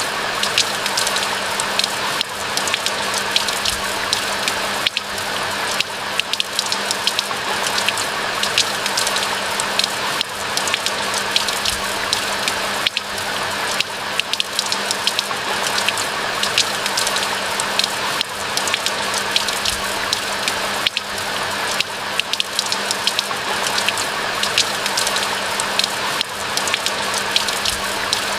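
Steady rain falling, an even hiss full of close, fine drop ticks.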